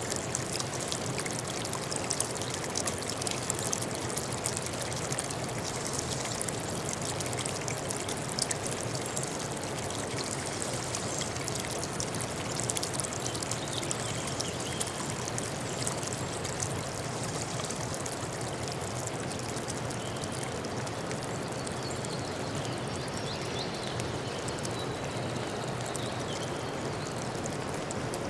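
Running water of a stream, trickling and splashing steadily.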